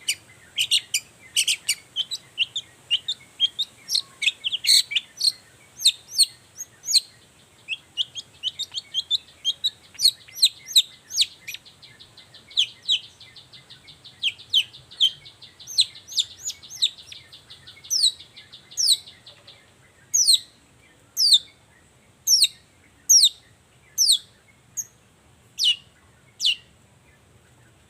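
Long-tailed shrike (cendet) singing: a rapid string of sharp, downward-sweeping chirps over a buzzy trill. About twenty seconds in, the trill stops and the song slows to single sharp notes about one a second.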